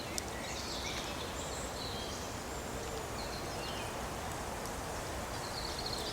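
Outdoor ambience: a steady background hiss with faint, scattered bird chirps.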